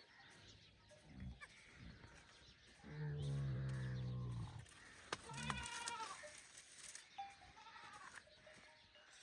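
Livestock bleating: a long, low, wavering call about three seconds in, then a short higher-pitched call soon after, with fainter calls around it.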